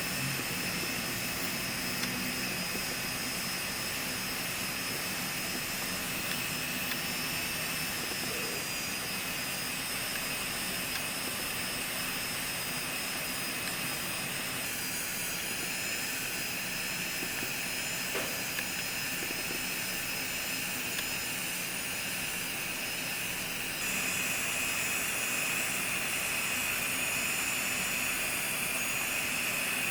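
Electric foot-care grinder (nail-drill micromotor) running with a steady high whine over a hiss as it files down a corn. Its pitch shifts slightly about halfway through, and it gets a little louder near the end.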